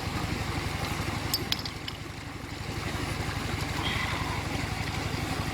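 A small engine running steadily with an even, fast low pulse, with a few sharp clicks about a second and a half in.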